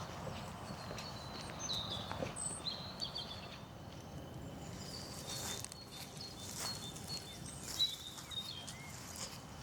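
Footsteps on a forest path, a steady crunch with small knocks, while small birds chirp in many short, high notes, some with quick gliding calls.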